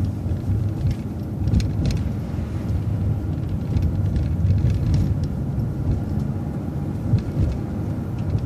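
City transit bus running along the street, heard from inside as a steady low engine and road rumble, with a brief rattle about one and a half to two seconds in.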